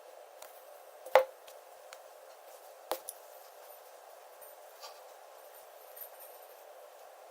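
Two sharp clicks of small hard objects being handled, one about a second in and a softer one about three seconds in, with a few faint ticks over a steady hiss.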